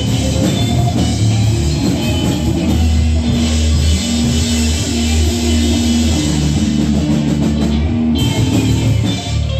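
Live band playing loud rock music.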